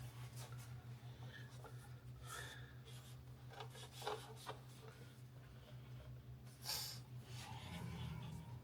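Faint rubbing and small handling noises as a rubber seal is worked onto the edge of a glass rear window, over a steady low hum. There is a short, louder scrape about two-thirds of the way through.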